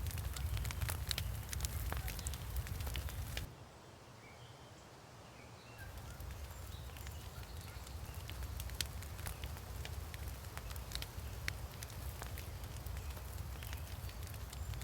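Wood fire crackling with frequent sharp pops over a low rumble. About three and a half seconds in it drops to a quieter stretch for about two seconds, then the crackling picks up again.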